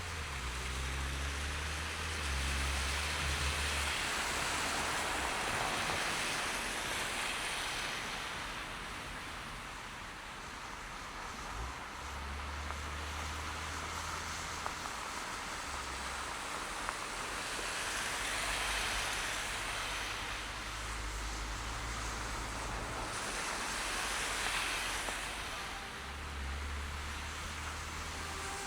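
Car driving on snow-covered city streets: a steady hiss of tyres and traffic on wet, slushy pavement that swells and fades several times, over a low engine hum that changes in steps.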